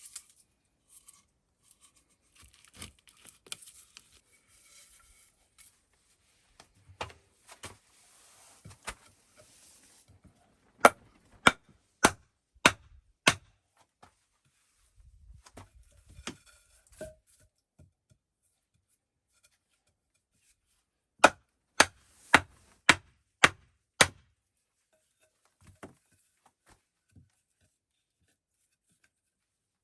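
Sharp strikes on wood in two quick, evenly spaced runs, about two a second: five strikes, then after a pause six more. Rustling and handling noise comes before the first run.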